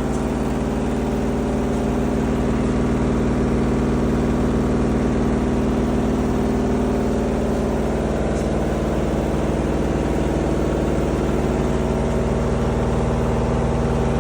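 Front-load washing machine running with a steady mechanical drone and vibration, the abnormal noise it is being recorded for.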